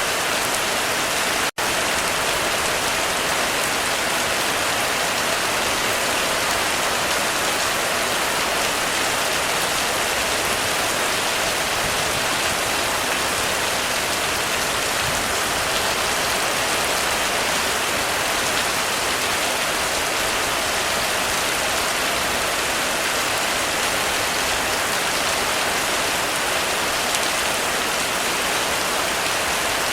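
Heavy rain falling steadily on a roof: a dense, even hiss of drops. It cuts out for an instant about a second and a half in.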